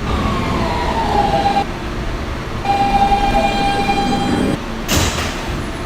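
Subway car's Siemens propulsion whining as the train comes to a stop: a tone falls in pitch, then a steady electric whine holds for a couple of seconds. A short burst of air hiss follows near the end.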